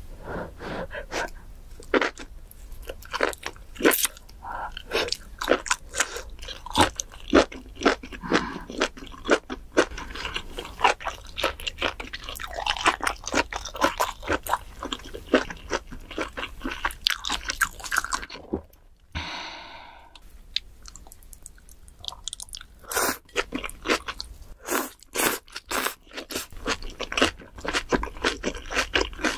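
Close-miked chewing of grilled pork, with quick wet crunches as it is bitten and chewed. The chewing eases off for a few seconds about two-thirds of the way through, then the crunching resumes.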